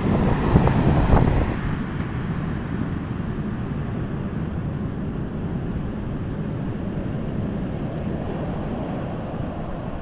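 Wind buffeting the microphone over the rumble of big surf breaking. The gusty hiss drops off abruptly about one and a half seconds in, leaving a steadier low rumble of waves.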